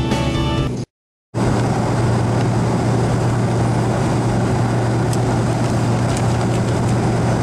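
Background music cuts off under a second in, and after a short silence comes the steady noise of a McDonnell Douglas MD-88 airliner heard from inside the cabin: an even rushing noise over a constant low hum from its rear-mounted jet engines.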